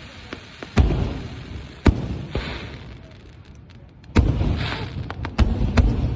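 Aerial fireworks going off: about five sharp booms, each followed by a rumbling echo, mixed with hissing and bursts of crackling.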